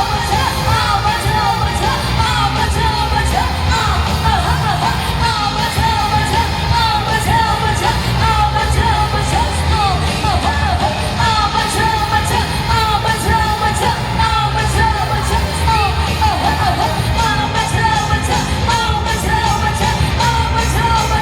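Live band playing a pop-rock song with singing, steady heavy bass, and yells over the music.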